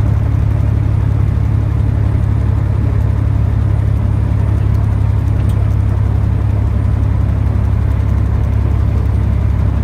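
Semi-truck's diesel engine and road noise heard inside the cab while driving: a steady, unchanging low drone.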